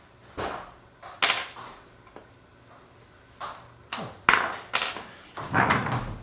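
Pull-along toy elephant knocking and clicking as it is handled and pulled along. The knocks are scattered and sharp, the loudest about four seconds in, with a busier patch of clatter near the end.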